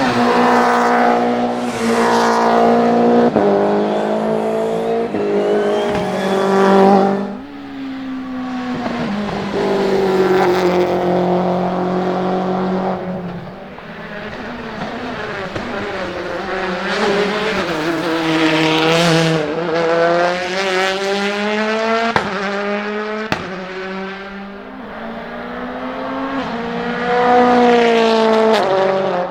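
Turbocharged four-cylinder World Rally Car engines at full throttle, one car after another. The pitch climbs as each car accelerates and drops back at every gear change or lift.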